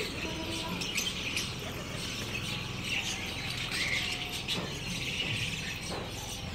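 Birds chirping, a continuous high twittering with a few short clearer calls mixed in.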